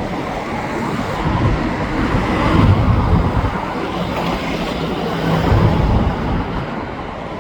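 Steady highway traffic of cars and trucks passing on the freeway, swelling twice as heavier vehicles go by.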